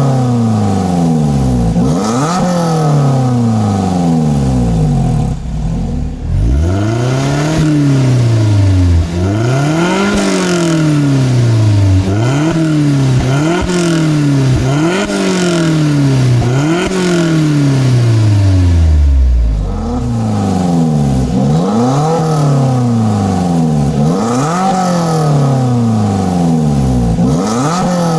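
Lotus Elise Cup250's supercharged four-cylinder engine and exhaust revving again and again, the pitch climbing and falling about every second and a half, with two short lulls.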